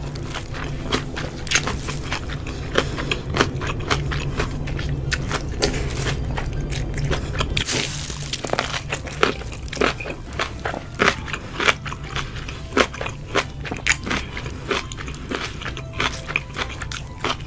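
A person taking big bites of food and chewing close to the microphone: many short, irregular crunchy clicks. A low steady hum underneath stops about eight seconds in.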